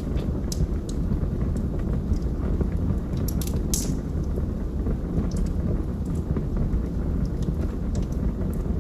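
Log fire burning in a fireplace: a steady low rumble of flames with scattered sharp crackles and pops from the burning wood, the loudest about four seconds in.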